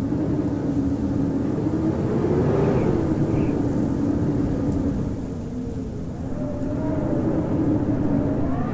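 Howling blizzard wind: a dense, steady rush with a wavering low howl that eases slightly about six seconds in, then climbs in pitch near the end.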